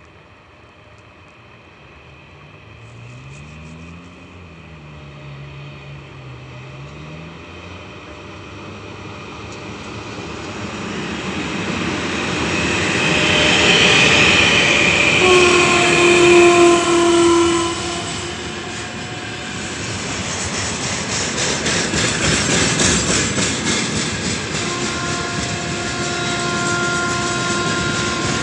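A 3ES5K Ermak electric locomotive hauling a long mixed freight train comes up and passes. Its running noise and a whine that falls in pitch build to a peak as it goes by, and a long steady horn blast sounds as the cab passes. The wagons then roll past with a fast clickety-clack of wheels over the rail joints, and a steady tone sounds again over the rolling near the end.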